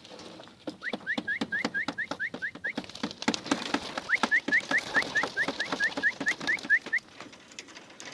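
A bird chirping in quick runs of short rising notes, about five a second, over sharp clicks and flutter. The clicks and flutter fit the wings of pigeons just released into flight.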